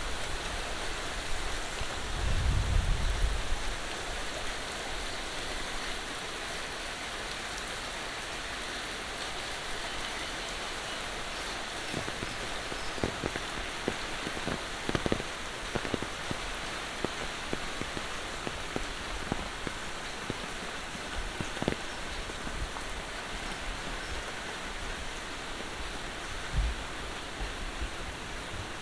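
Steady monsoon rain falling, a dense even hiss, with a brief low rumble about two seconds in and scattered sharper drops tapping close by in the middle stretch.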